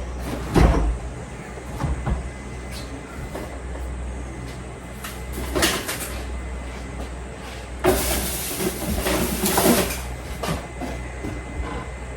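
Kitchen handling noise: a few knocks of a door or cupboard opening and shutting, and a stretch of rustling about eight seconds in, over a low steady hum.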